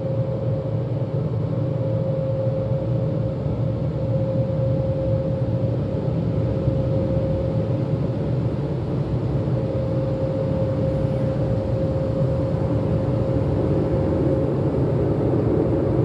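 Automatic car wash's air-dryer blowers running, a loud steady rushing noise with a low rumble and a steady mid-pitched hum, blowing the water off the car to dry it.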